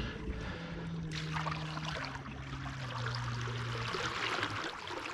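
Water splashing and trickling at the side of a kayak as a big bass is landed, with a low steady hum underneath that drops in pitch about two seconds in.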